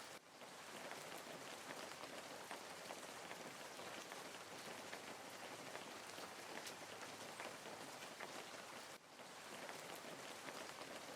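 Small garden waterfall fountain splashing steadily into a pond, a constant patter of falling drops. The sound dips briefly about nine seconds in.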